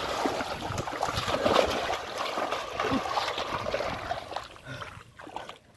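Shallow muddy water splashing and sloshing as hands work through it, dying down near the end.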